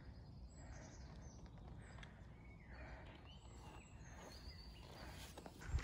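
Faint birdsong: scattered short high chirps and whistles over a low, steady outdoor rumble.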